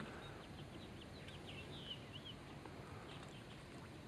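Faint, short bird chirps at irregular intervals over a low background hush.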